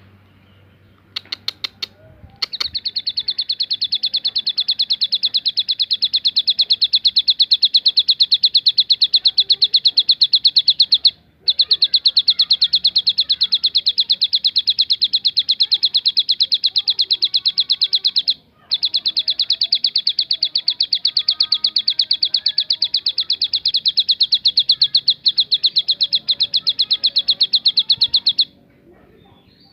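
Ciblek gunung, a prinia, singing its 'tembakan': a few sharp chips, then a long, very fast, even rattle of high notes that runs for most of half a minute. It breaks off twice briefly, about a third and two thirds of the way through.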